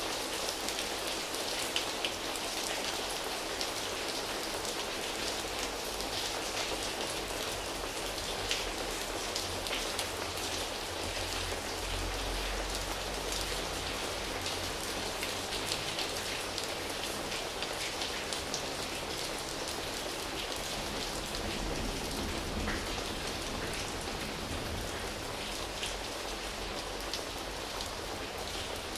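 Steady rain, drops pattering on foliage leaves, with scattered individual drop ticks over a constant hiss of rainfall.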